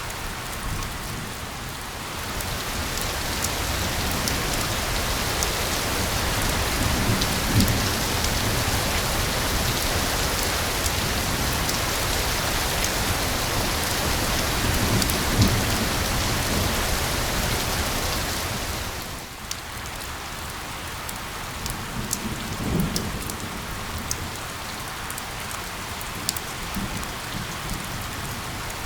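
Steady rain falling, with scattered drop ticks. It grows heavier a couple of seconds in and eases off sharply about two-thirds of the way through, with a few soft low rumbles.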